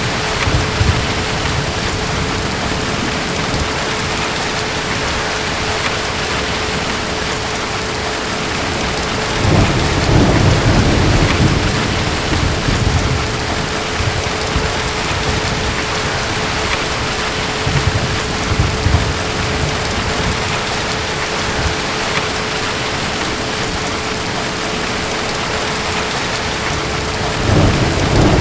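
Steady heavy rain with rolls of distant thunder rumbling low, the longest about ten seconds in, a short one a little later, and another starting near the end.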